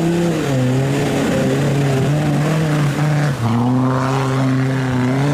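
Car engine running steadily, its pitch wavering a little and dropping slightly about three and a half seconds in.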